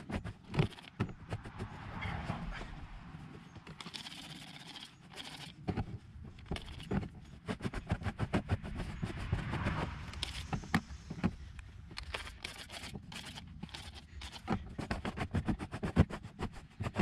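Hands scrubbing a wet cotton t-shirt on a plastic truck bedliner, working stain remover into the fabric with quick, uneven rubbing strokes and knocks. A trigger spray bottle sprays a few seconds in.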